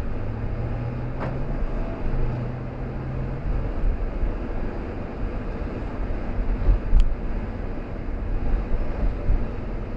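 Car driving, a steady low rumble of engine and road noise. A low droning tone sounds twice in the first few seconds, each time about a second and a half long, and there is a single sharp click near the middle.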